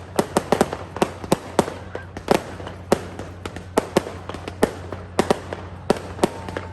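Fireworks display: a rapid, irregular string of sharp bangs and crackles, several a second, some much louder than others.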